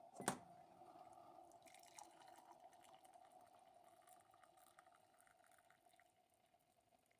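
Faint kitchen sounds: a sharp click about a third of a second in, over a faint steady hum that slowly fades away, with scattered light ticks.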